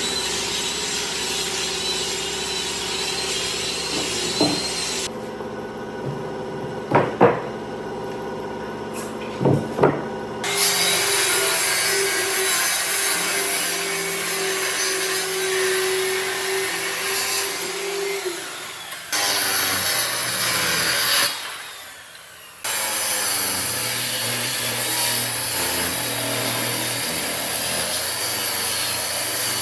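A power tool working wood, a steady motor tone under dense grinding noise. It breaks off abruptly a few times, and a quieter stretch early on holds a few sharp knocks.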